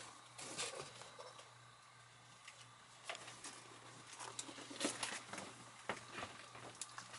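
Faint steady hum with a thin higher tone from a repaired Lyen 12-FET e-bike controller setup on a test run, with scattered light clicks and taps from handling, the sharpest about five and six seconds in.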